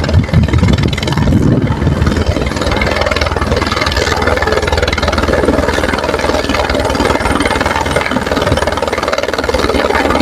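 Helicopter running loud and steady, its rotor making a fast, even chop over the engine noise.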